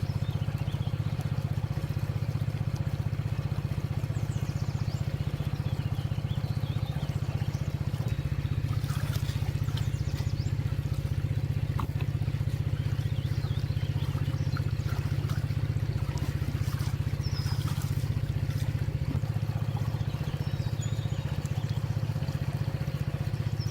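A small engine running steadily: a low, even hum that does not change throughout.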